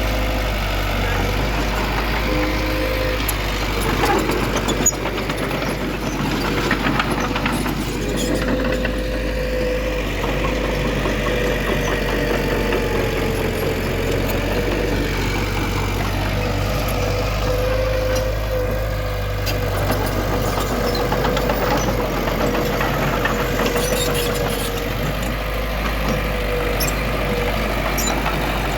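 Heavy diesel engine of earthmoving machinery running steadily with a constant whine over its rumble. A few sharp clanks come about four to seven seconds in.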